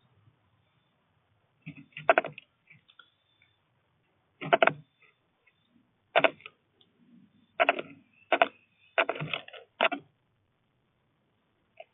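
Small birds tapping and knocking against a bird feeder, likely beaks pecking at seed and feet landing: short clusters of sharp taps every second or two, about seven in all.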